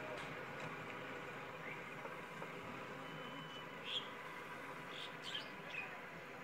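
Small birds chirping a few times, with short high calls clustered about four to six seconds in, over a steady faint hiss of open-air ambience.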